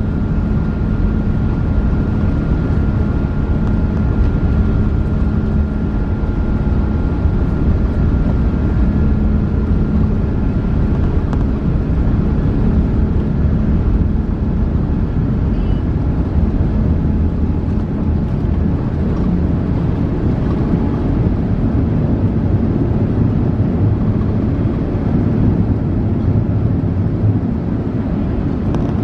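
Steady, loud cabin noise of a British Airways Airbus A380 (Rolls-Royce Trent 900 engines) heard from inside the cabin: a deep, even rumble of engines and airflow, with a thin whine that fades out during the first ten seconds or so.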